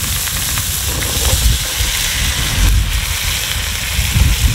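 Cut potatoes frying in hot mustard oil in a pan: a loud, steady sizzle over a low rumble.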